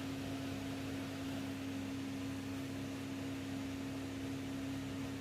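Galanz front-load washing machine running with a steady, even hum over a faint hiss.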